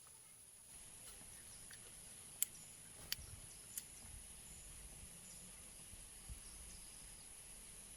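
Faint outdoor ambience: a steady high-pitched insect drone, with a few sharp light clicks in the middle.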